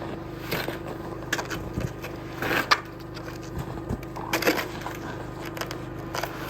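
Homemade snow rake, a milk crate clamped to a long PVC pipe, scraping and dragging snow off the edge of a shelter roof: a few short, irregular scrapes and swishes, the loudest about two and a half seconds in.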